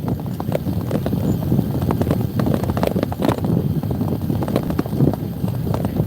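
Motorcycle on the move: engine and riding noise with an irregular crackle of sharp knocks throughout.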